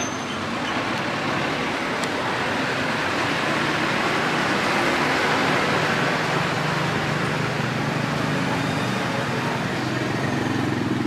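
Road traffic: motor vehicles running and passing, with an engine growing louder about halfway through.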